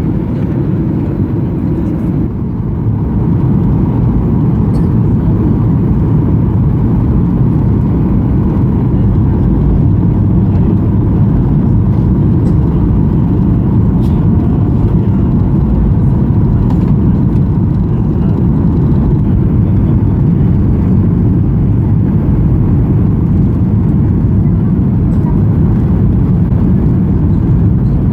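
Steady low rushing drone of a Boeing 737-800 cabin in descent: engine and airflow noise heard from a seat behind the wing. It grows a little louder about three seconds in, then holds steady.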